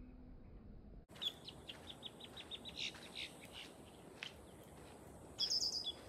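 Small bird chirping: a quick run of about ten short, high chirps, then a louder high call near the end. About a second in, the background hiss changes suddenly.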